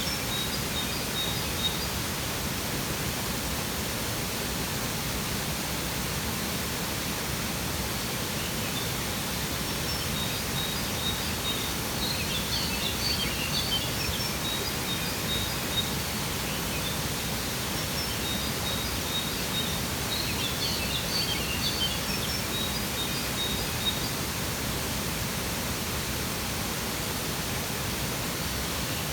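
Steady rush of a waterfall, with small birds chirping over it in several short bursts.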